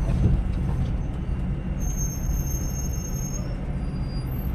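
Scania Metrolink multi-axle coach cruising on the highway: a steady low drone of engine and road noise heard inside the cabin.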